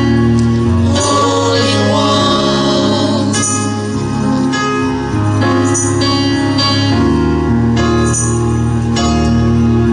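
Gospel music: singing over a sustained instrumental accompaniment with a held bass line, the chords changing every second or so.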